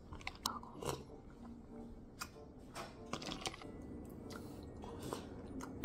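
Quiet eating sounds: chewing, with scattered soft clicks and taps.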